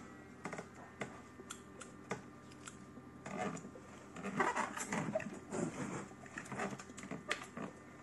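Hands working on an electric motor stator during rewinding: scattered light clicks and taps, with a busier stretch of rustling and clattering from about three to seven seconds in.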